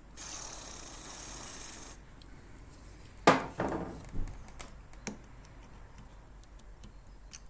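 A hiss lasting about two seconds, then a loud metallic clack and a run of lighter clicks and ticks as the lawnmower's drive axle, with its spring-loaded key back in place, is worked by hand.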